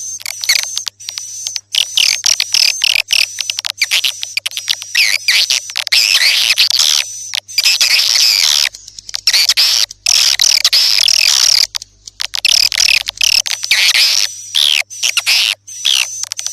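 Swiftlet call lure recording: swiftlets twittering in high chirps over rapid trains of dry clicks, with a thin steady high whistle running through it and a few brief breaks.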